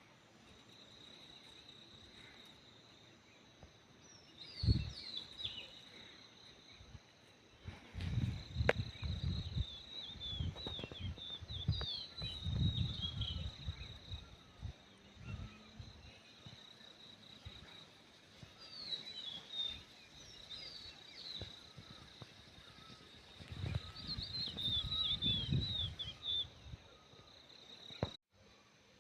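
Small birds twittering in several bursts of quick, short falling chirps, over a steady high insect drone. Low rumbles, like wind on the microphone, come and go underneath.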